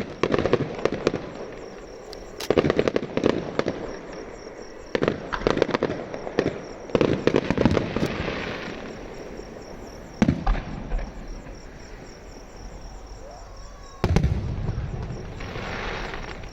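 Electronically fired fireworks going off in repeated volleys of rapid bangs, about six bursts each lasting around a second. Between them come stretches of hissing crackle.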